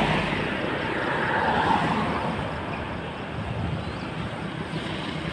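Road traffic noise: a steady rushing of vehicles on the highway, swelling slightly in the first couple of seconds as one goes by.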